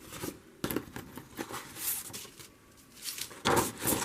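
Thin plastic stencil sheets being handled and flipped over, a series of irregular crinkling rustles, the loudest near the end.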